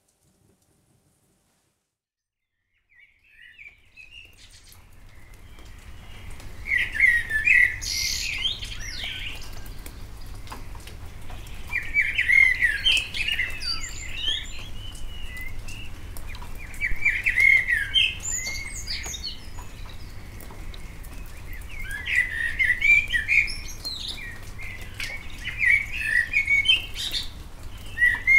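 A songbird singing in short phrases of quick rising and falling notes, a phrase every four to five seconds, fading in after about three seconds of silence, over a low steady rumble.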